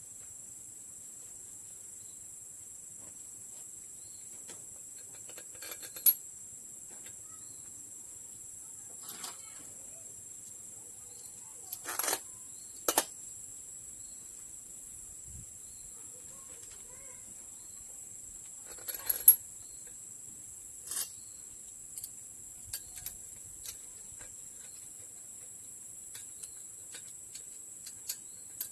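Scattered metallic clicks and clinks of hand tools and engine parts being handled, with the loudest about six seconds in and near the middle, over a steady high hiss.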